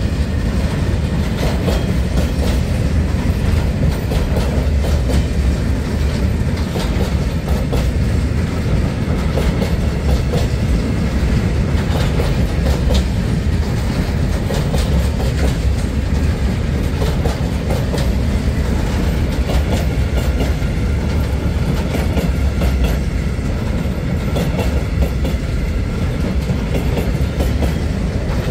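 Freight train of VTG silo wagons for lignite dust rolling past close by: a steady low rumble, with the wheels clicking over the rail joints.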